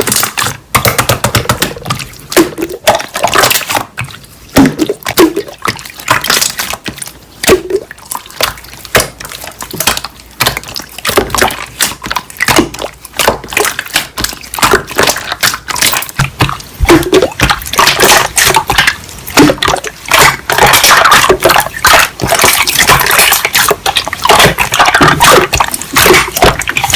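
Slime being squeezed, pressed and stretched by hand: a continual run of wet, sticky clicks, pops and squelches.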